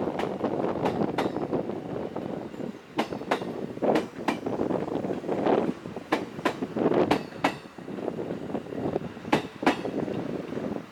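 A train rolling past, its wheels clicking in pairs over the rail joints, with the rumble of the running train and wind underneath.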